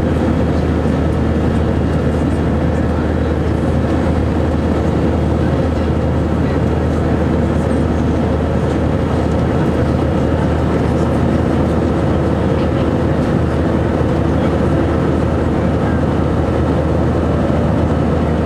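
Airbus A319 engines and airflow heard inside the passenger cabin: a loud, steady drone with a deep hum and a few held tones, unchanging throughout.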